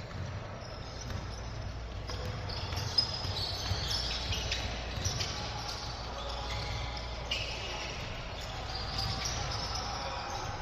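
Basketball game sounds in a gym: a ball bouncing on the court and short high squeaks from sneakers, over a background of crowd chatter, with one sharp knock about three seconds in.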